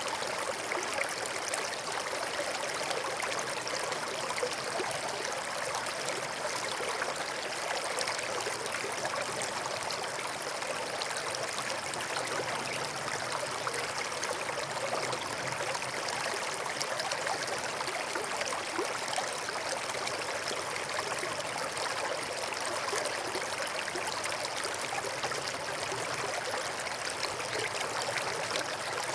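Forest stream running steadily over rocks, an even rush of water with fine trickling and gurgling detail.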